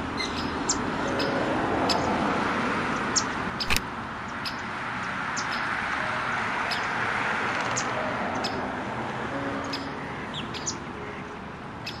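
Small birds chirping in short, high notes over a steady wash of distant road traffic that slowly swells and fades, with one sharp click about four seconds in.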